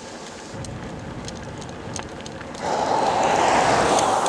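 A motor vehicle passes close by on the road: a steady rumble of traffic, then about two-thirds in a sudden loud rush of tyre and engine noise that peaks and begins to fade.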